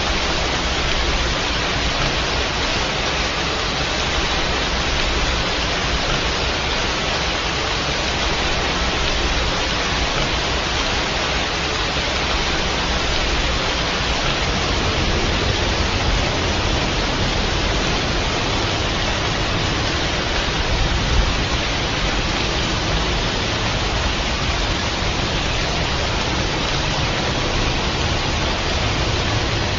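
Steady heavy rain: a dense, even hiss with no let-up.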